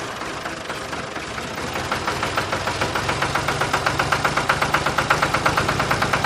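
Small motor of a miniature DIY model tractor running, with a rapid, even ticking that grows louder partway through and a steady low hum.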